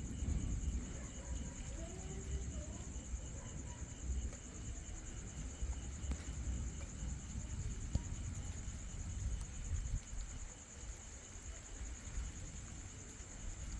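Night insect chorus: a steady high-pitched buzz, with a second insect pulsing rapidly at a lower pitch, over a low rumbling background.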